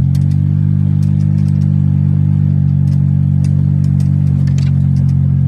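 Golf cart driving at a steady speed, its motor running with an even low hum that holds one pitch, with scattered light clicks and rattles.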